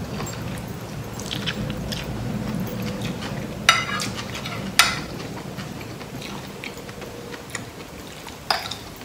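A person chewing a mouthful of rice vermicelli noodles in coconut curry sauce, close to the microphone. Metal cutlery clinks sharply against the plate three times: at about 4 and 5 seconds and near the end.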